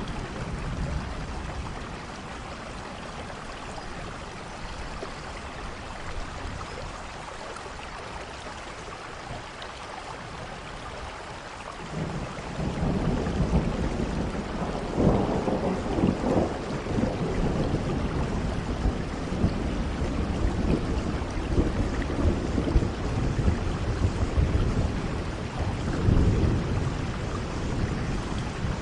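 Steady rain falling, with thunder rumbling in about halfway through and swelling twice, loudest shortly after it starts and again near the end.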